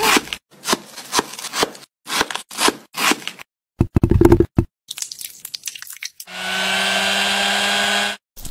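Food-preparation sounds in quick cuts: a string of short crunching strokes, one louder and deeper about four seconds in, then a small electric appliance motor running steadily for about two seconds near the end.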